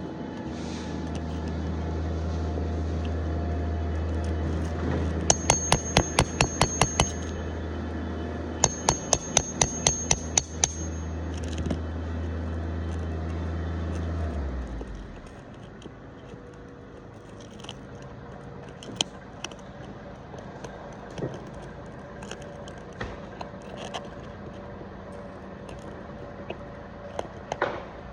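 Two quick runs of light hammer taps on metal, about six a second, each strike ringing, over a steady low hum that cuts off about halfway through. Scattered light clicks and taps follow.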